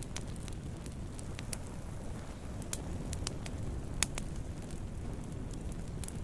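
Wood campfire burning, a steady low rumble of flames with sharp crackles and pops at irregular intervals, one louder pop about four seconds in.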